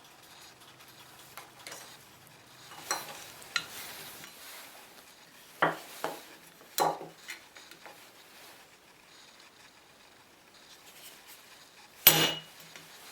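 Metal pieces clinking and clanking as they are handled: a few light clanks in the first half, then one sharp, loud metallic knock near the end that rings briefly.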